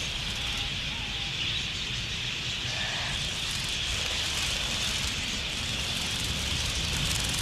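A large flock of wild budgerigars chattering together in a steady, dense high-pitched chorus, with a low rumble underneath.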